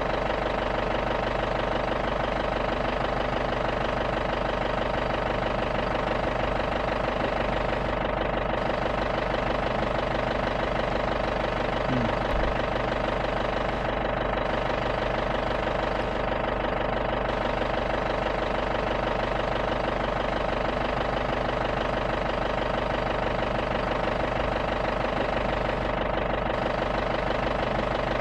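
Safari jeep's engine running steadily, heard from inside the vehicle.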